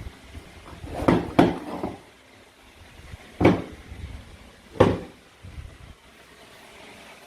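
Toy knife and plastic play-food pieces being cut apart, making sharp clacks: a quick pair about a second in, then two single clacks a second or so apart.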